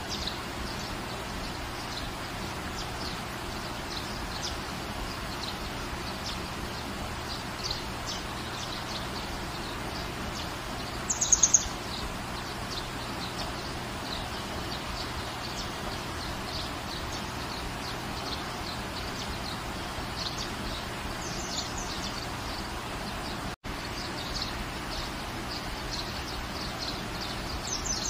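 Steady rain with small birds chirping throughout; one louder, brief bird call sounds about 11 seconds in. The sound cuts out for an instant about two-thirds of the way through.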